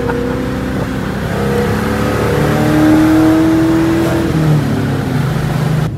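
Car engine pulling under acceleration, heard from inside the cabin over road noise; its pitch climbs steadily and then falls back about four seconds in.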